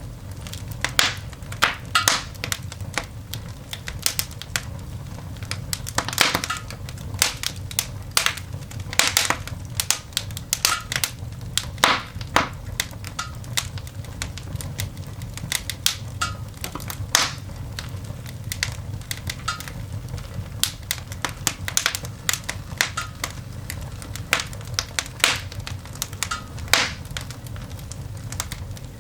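Coal fire burning in a cast iron dog grate, crackling and popping with irregular sharp snaps over a low steady background.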